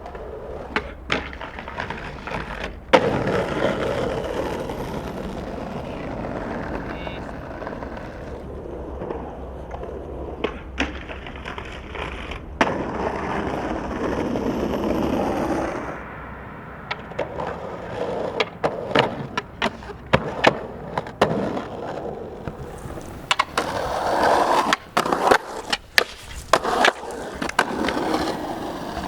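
Skateboard wheels rolling, with a loud knock about three seconds in and many sharp clacks of the board and trucks in the last third.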